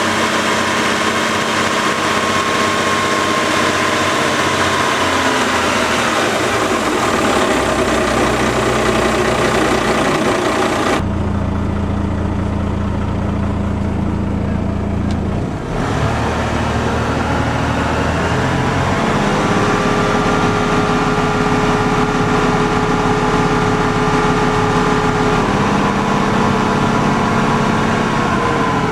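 Yamaha FC-27 boat's SX420KUH marine engine running after start-up, its speed stepping down about six seconds in, rising again partway through and dropping back near the end. For several seconds in the middle the sound abruptly turns duller and deeper.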